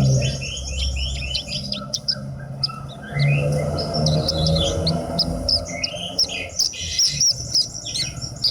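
Javan bush lark (branjangan) singing: a fast, unbroken run of short sharp chirps and quick trills, with a low hum underneath.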